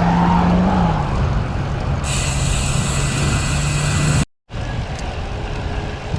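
Wind and road noise of a moving bicycle, with a steady low motor-vehicle hum that drops in pitch about a second in and a hiss joining about two seconds in. The audio cuts out completely for a moment just past four seconds.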